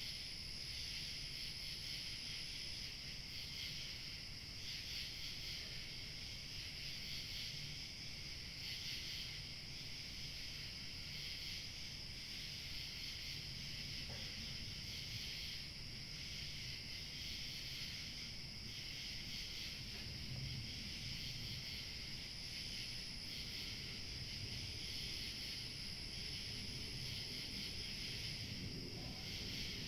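Crickets chirping steadily in a dense evening chorus, with a faint low rumble of light wind underneath.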